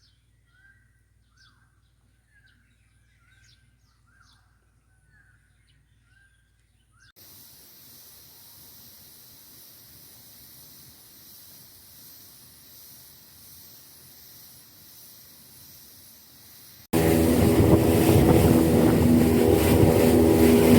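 Faint, short repeated chirps over a low hum, then a faint steady hiss. About four seconds before the end, a speedboat's 75-horsepower outboard motor cuts in loud and runs steadily at speed.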